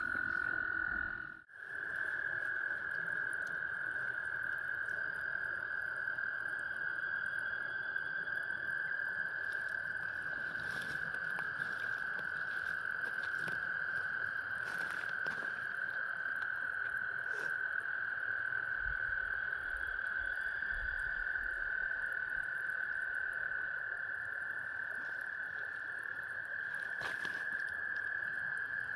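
A dense chorus of frogs giving their spring mating calls, one steady high-pitched din with no break. It drops out for a moment about a second and a half in.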